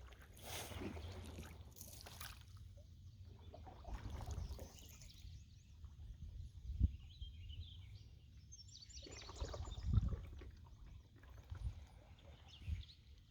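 Canoe paddling: paddle strokes splashing and dripping in the water. A few dull knocks come about halfway through, again about three quarters in, and once near the end.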